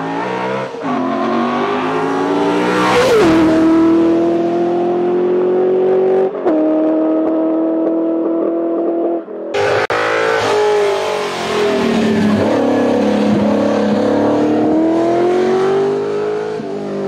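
Ford 289 V8 in a small sports car under hard acceleration, its note climbing and dropping sharply at gear changes about three and six seconds in. After an abrupt cut about halfway, the note falls as the car slows, then climbs again as it pulls away.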